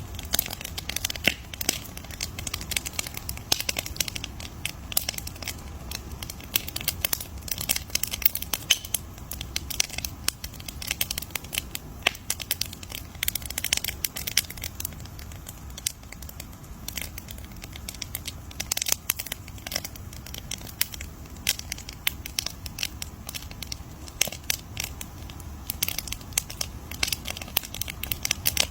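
Campfire burning and crackling, with a dense run of irregular sharp pops and snaps over a low steady rumble of the flames.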